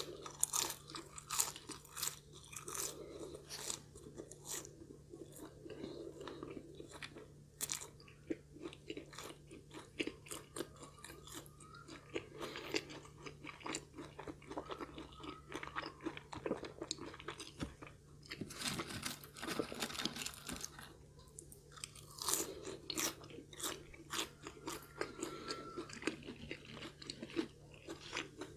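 Close-miked chewing of crispy curly fries: a steady run of small, sharp crunches, with a louder stretch of crunching about two-thirds through.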